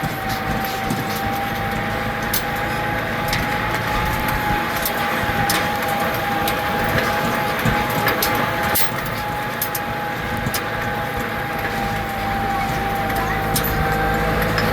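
Tractor running steadily on a tractor ride, with a steady whine over a low rumble and scattered sharp clicks and knocks.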